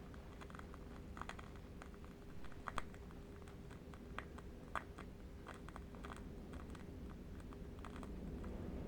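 Faint, irregular clicks scattered over a low steady rumble and a faint steady hum; the loudest click falls a little under three seconds in.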